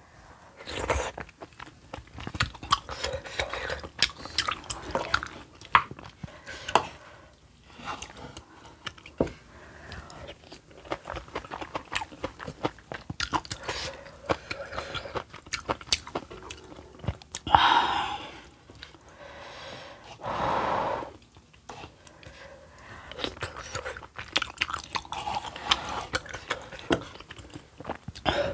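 Close-miked chewing and lip-smacking of a person eating spicy kimchi stew, with many short wet mouth clicks throughout.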